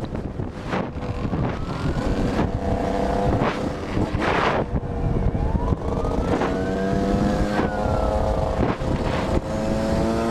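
Motorcycle engine running under way, its pitch slowly rising and falling over a steady rush of wind and road noise, with several short sharp knocks or gusts.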